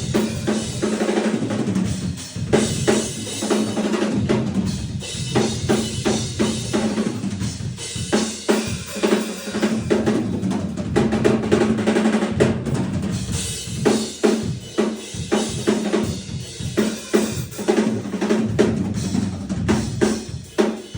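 Drum kit playing a steady groove of kick and snare hits in live band music, with a held low note sounding underneath.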